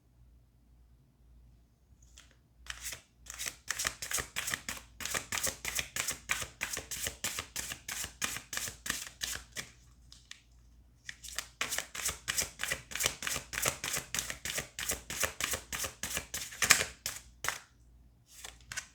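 A deck of tarot cards being shuffled by hand, an overhand shuffle heard as quick soft slaps of cards, about five a second. There are two runs of it with a short pause in between.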